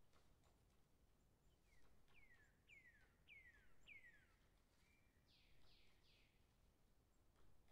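Faint bird song: a run of five quick whistled notes, each sliding downward, then a short level note and three more downward-sweeping notes.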